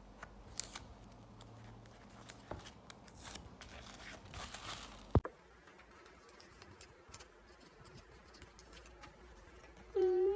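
Card packaging being handled and opened by hand: crinkling, scraping and small clicks, with a sharp click about five seconds in, then quieter handling.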